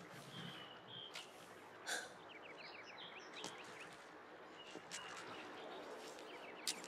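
Songbirds chirping outdoors: a few short high calls, then quick trills of rapid short notes twice, over a faint steady hiss, with a few sharp clicks.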